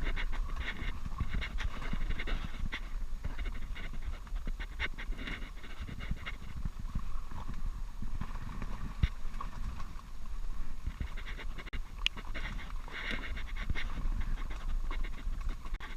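A man breathing hard in quick, rasping pants, coming in clusters, over a steady low rumble.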